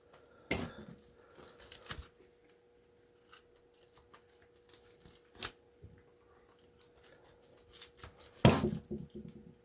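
Pliers cutting and pulling plastic insulation off copper wire: a series of sharp snips and short tearing scrapes, the loudest near the end, over a faint steady hum.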